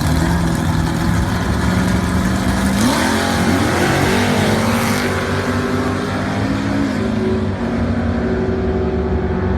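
Loud hot-rod car engine running, its pitch rising about three seconds in as it revs or pulls away, then holding and dropping back a step near the end.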